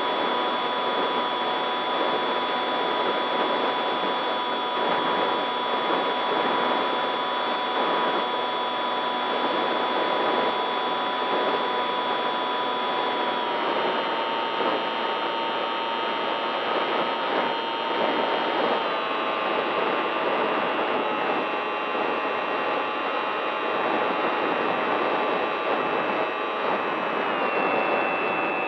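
Electric RC model plane's motor and propeller running steadily over a rush of air, with the motor whine stepping down in pitch three times as the throttle is eased.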